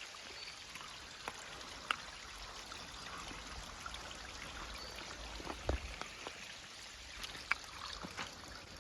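Steady wash of water, with scattered small taps and clicks.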